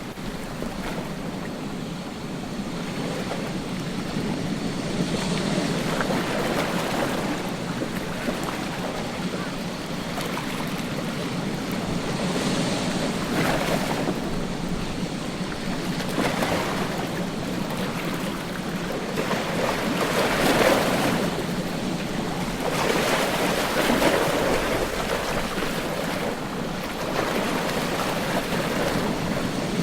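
Ocean surf breaking on a beach: a steady wash of water with a swell of a breaking wave every few seconds, the strongest about two-thirds of the way through.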